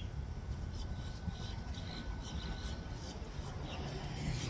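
Steady low rumble of distant road traffic, with faint scattered light ticks above it.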